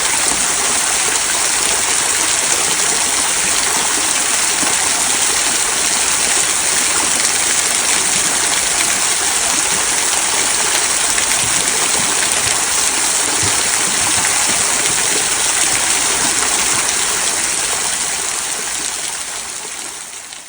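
Small rock waterfall trickling over mossy stones into a stream: a steady, even rush of water. It fades out near the end.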